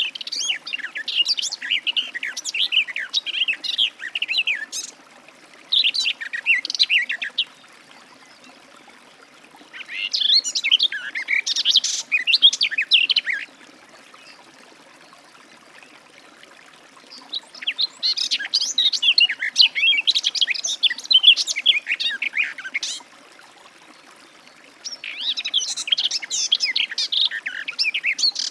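Garden warbler singing: long, rapid warbling phrases lasting several seconds each, about five in all, separated by pauses of a few seconds.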